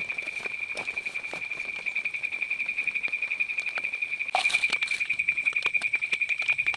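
Crickets trilling: a steady, rapidly pulsing high tone, with scattered light clicks and knocks and a brief louder rustle a little past the middle.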